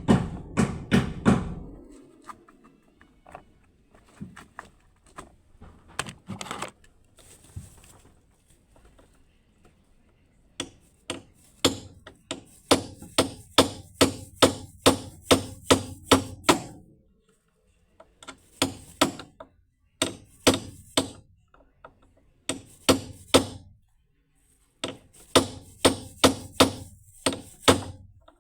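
Repeated hammer blows, struck about two to three times a second in several runs with short pauses between, typical of work to knock out or seat a bracket.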